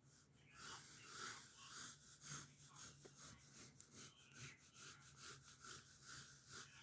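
Pencil scratching on paper in quick, even back-and-forth sketching strokes, about three a second, starting about half a second in.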